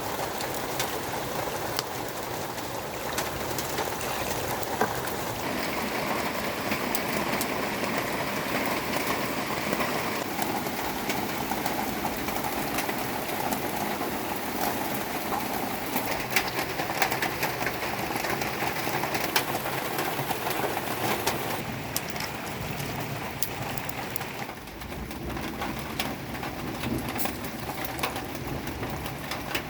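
Steady rain falling, with many scattered sharp ticks of drops.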